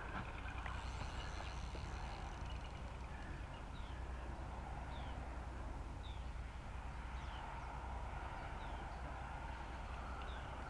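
A bird repeating a short, high falling call about once a second, over a steady low rumble.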